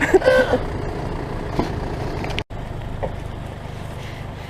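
Diesel 4x4 engine running steadily, with a sudden short dropout about two and a half seconds in.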